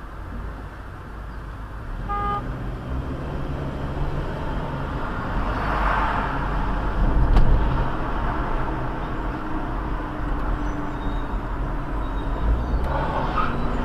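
Vehicle engine and road noise while driving, with a short horn beep about two seconds in and a single sharp click about halfway through.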